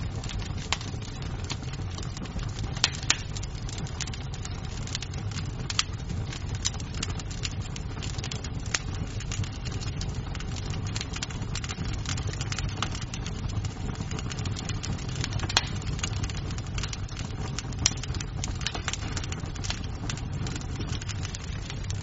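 Wood fire crackling in a fireplace: frequent irregular snaps and pops of burning wood over a steady low rumble of the flames, with a few louder pops.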